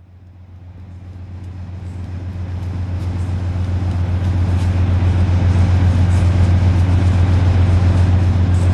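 Amtrak train running: a steady low rumble with a fast, even pulse that swells up over the first few seconds and then holds.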